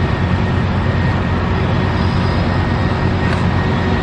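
Steady outdoor noise of road traffic and engines, a continuous low rumble with no breaks.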